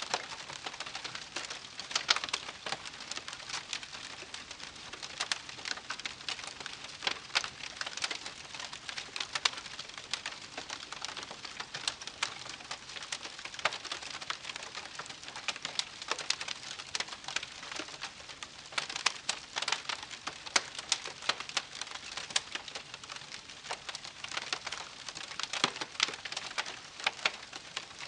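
Wood campfire crackling steadily, with frequent sharp, irregular pops and snaps over a soft hiss of burning.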